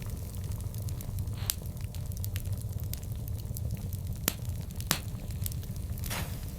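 Wood fire burning with a low steady rumble and scattered sharp crackles and pops, the two loudest snaps about four and five seconds in.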